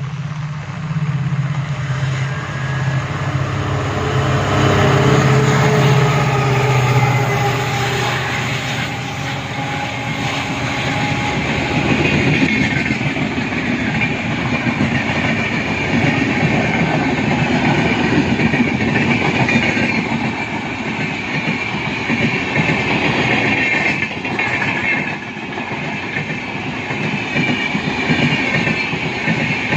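A passing train: an EMD diesel locomotive's low engine hum for the first several seconds, then coaches rolling by with the wheels clacking over rail joints and a steady higher-pitched rolling whine.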